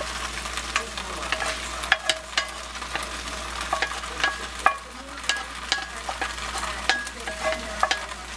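Sautéed mushrooms and onions sizzling as a wooden spatula scrapes them out of a cast iron skillet into a preheated cast iron Dutch oven. The steady hiss of frying is broken by many sharp clicks and scrapes of wood on iron.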